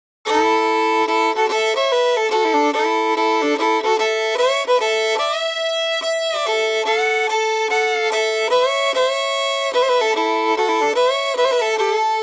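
Unaccompanied fiddle playing a slow melody, sliding between notes and often bowing two strings at once.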